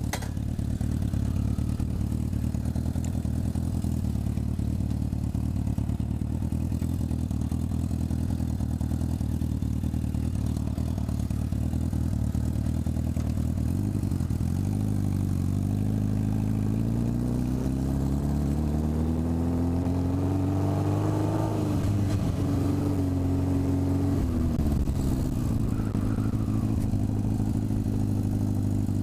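Suzuki GS650 inline-four motorcycle engine pulling away at low revs. Around the middle the revs climb for several seconds as it accelerates, then drop sharply, hold briefly, and fall back as it slows near the end.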